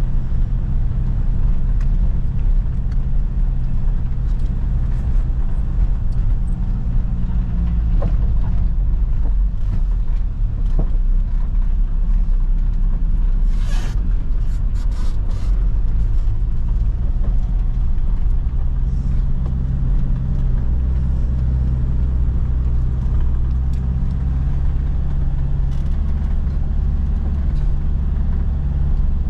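Car driving along: a steady low engine and road rumble whose engine note shifts a few times, with a short run of sharp clicks or rattles about halfway through.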